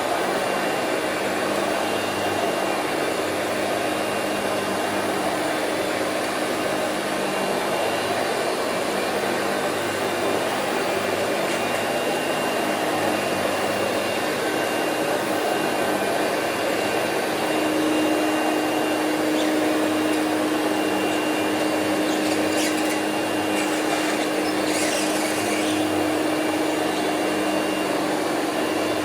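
Hoover Celebrity QS canister vacuum cleaner running steadily, with a steady hum that grows a little louder about two-thirds of the way through.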